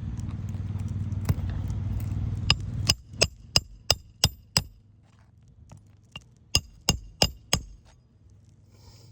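Hand hammer driving roofing nails into an old asphalt shingle: two quick runs of sharp strikes, about three a second, six and then five with a short pause between. A steady low rumble fills the first three seconds before the hammering starts.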